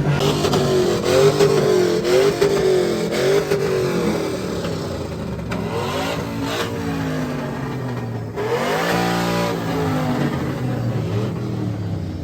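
A vehicle engine revving hard at a street takeover, its pitch rising and falling again and again, with one quick sharp climb about nine seconds in.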